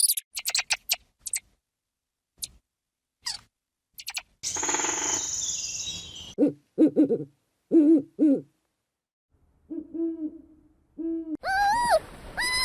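A run of animal calls. Quick high chirps come first, then a hissing screech, then a series of low, even hoots. Near the end a higher call rises and falls.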